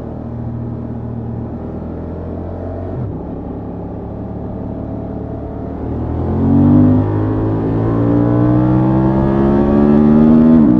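Honda XL750 Transalp's parallel-twin engine on its stock exhaust, running steadily at low revs, then accelerating from about six seconds in. The pitch climbs through a gear change and drops sharply at another shift near the end.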